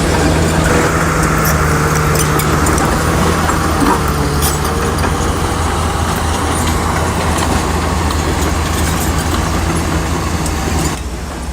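Heavy diesel engine of a bulldozer running steadily under work, with scattered knocks and clanks from the machine. Near the end the higher noise cuts off abruptly, leaving a lower rumble.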